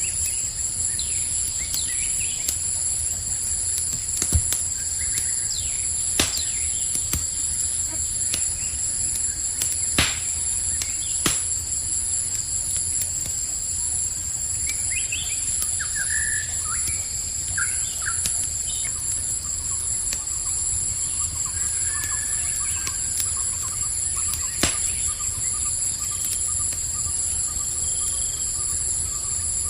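Campfire crackling with a few sharp pops over a low rumble, against a steady high chorus of crickets. Birds chirp briefly about halfway through, and a thin trill runs through the later part.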